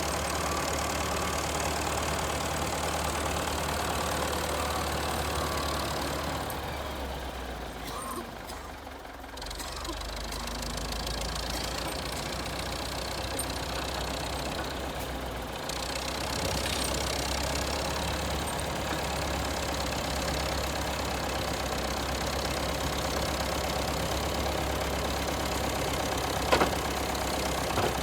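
Engine of a 64-year-old Volvo tractor running steadily while it clears snow. About eight seconds in it eases off briefly, then picks up again to the same steady running. There is a short sharp knock near the end.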